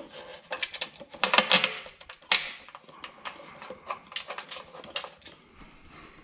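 A rapid clatter and clinking of small hard objects being handled, with the busiest run about a second in and a sharp hit at about two and a half seconds, then thinning to scattered clicks.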